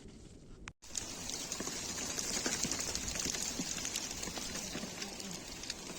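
Rain pattering down densely, a steady hiss full of many small drop impacts, starting suddenly about a second in after a brief gap.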